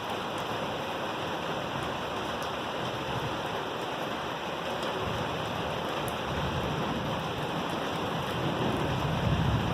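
Heavy rain falling in a steady, dense hiss during a thunderstorm, with a low rumble of thunder building in the second half and loudest near the end.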